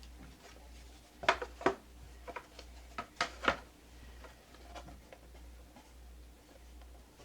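Sharp clicks and light knocks from small wooden birdhouse-kit pieces being handled and glued on a tabletop: two louder clicks about a second in, another pair around three seconds, then a few softer taps.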